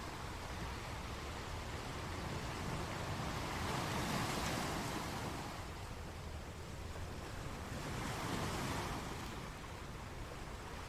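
A steady rushing noise that swells and ebbs twice, about four seconds in and again near eight and a half seconds.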